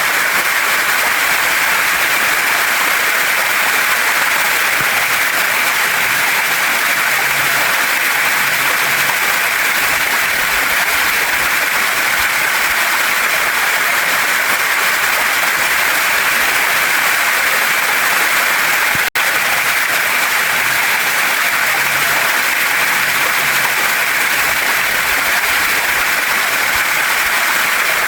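Waterfall and stream water rushing in a steady, dense hiss, with a split-second dropout about two-thirds of the way through.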